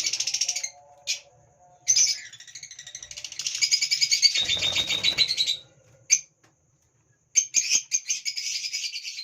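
Hagoromo budgerigars chattering and warbling in fast trills, in three stretches with a short pause between each.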